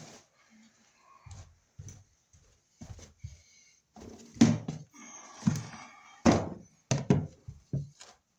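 A string of irregular thunks and knocks, loudest in the second half, from an old wall receptacle being worked out of its electrical box by hand.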